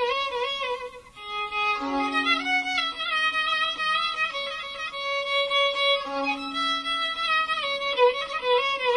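Instrumental passage of Turkish meyhane music: a violin plays the melody with vibrato over a held lower note, with a short break about a second in.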